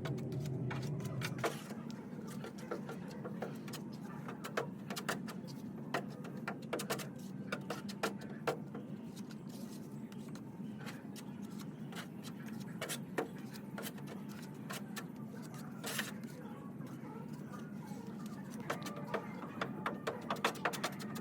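Workshop handling noises: scattered light clicks and taps over a steady low hum, with a louder hum dropping away about a second and a half in.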